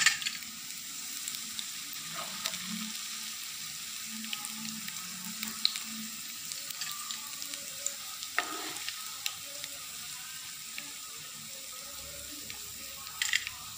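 Avil (poha) vadas frying in shallow oil in a non-stick pan: a steady sizzle with scattered small crackles. A few sharper clicks come from the perforated metal spoon scraping against the pan as the vadas are lifted out, one about eight seconds in and another near the end.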